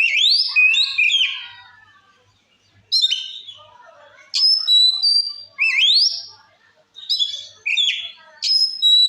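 Oriental magpie-robin (kacer) in loud full song: a series of clear whistled phrases with quick rising sweeps, about one every second and a half, with a short pause near two seconds in.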